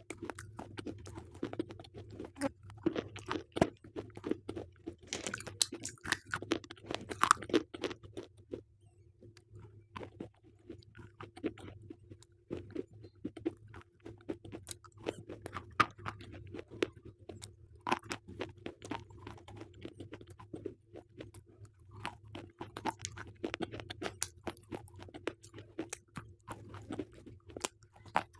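Slate pencils being bitten and chewed close to the microphone: irregular sharp crunches, densest in the first eight seconds or so, sparser for a few seconds, then coming again more evenly.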